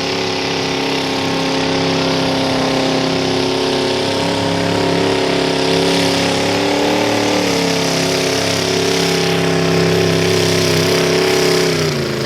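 Mini modified pulling tractor's engine held at high, steady revs under load during a pull. Its pitch drops sharply and the sound cuts off at the very end.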